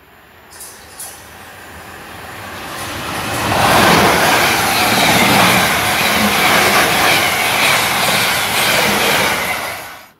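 South Western Railway passenger train running through the station at speed: a rushing rail noise that grows as it approaches, then a loud, steady rolling of wheels on rail as the carriages pass close by, cutting off suddenly near the end.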